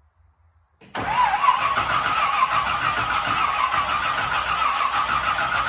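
Chevrolet 327 small-block V8 running loud and steady, coming in suddenly about a second in.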